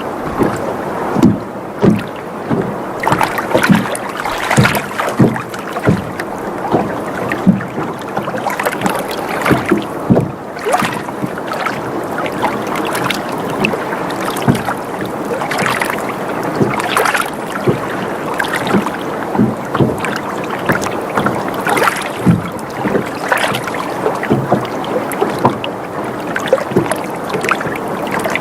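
Water sloshing and lapping against a sailboat's hull: a steady wash with irregular short slaps and knocks about once or twice a second, and the boat creaking as it rocks.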